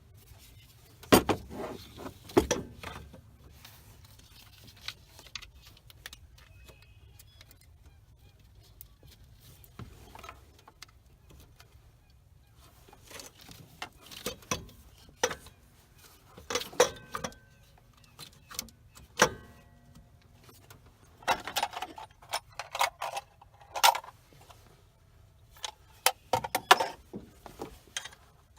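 Metal hand tools and parts clinking and knocking while an alternator is hooked up and fitted into a truck's engine bay. Two sharp knocks come near the start, then irregular clinks and rattles with brief metallic ringing, busiest in the last half.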